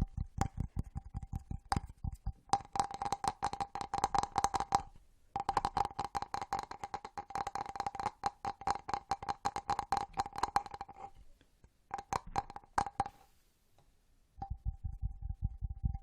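Fast ASMR tapping: rapid runs of quick sharp taps with a steady faint ring beneath them, pausing briefly about five seconds in and twice more near the end before starting again.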